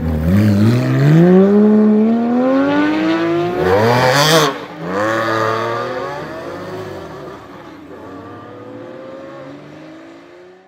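Porsche 991 GT3's flat-six through an iPE Innotech titanium exhaust accelerating hard, its pitch climbing steadily for about four seconds. A sharp crack comes about four seconds in as it shifts up, then the pitch climbs again while the sound fades as the car pulls away.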